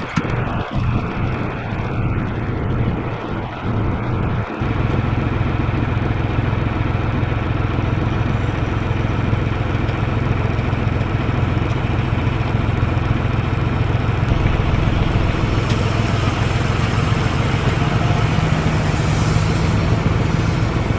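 Backhoe's diesel engine running steadily under load as it pulls a trailer stuck in the mud.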